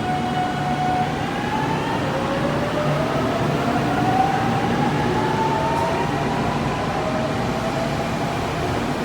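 813 series and 817 series electric multiple unit pulling away, its inverter-driven traction motors whining in tones that rise in pitch as the train accelerates, over the rumble of the running gear.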